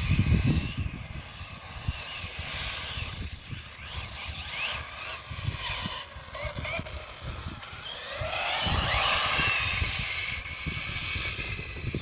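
Hobbytech NXT RC buggy driving hard, its motor revving up and down in rising and falling whines, loudest and longest about two-thirds of the way through.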